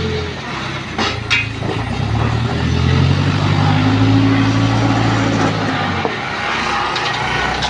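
Heavy diesel engine running and revving up under load for a few seconds, then easing back. There are two sharp clanks about a second in.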